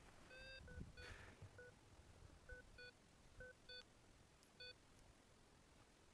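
Paragliding variometer beeping faintly: short beeps of one steady pitch at an uneven pace, about nine of them, stopping about five seconds in. Short beeps like these are how a vario signals climbing air.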